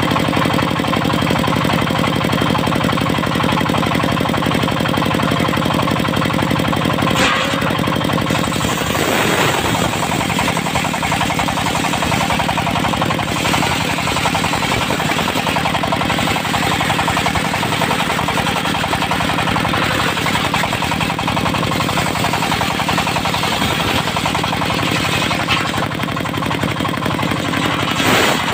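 Dongfeng diesel engine running hard with a steady knocking beat, driving a circular sawmill blade. From about nine seconds in, a rasping hiss joins it as the blade cuts through teak.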